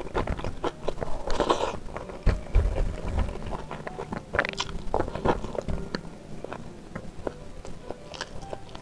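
Close-miked eating: chewing with wet mouth clicks and smacks from a mouthful of spicy beef ribs and rice, with a short rustle about a second and a half in.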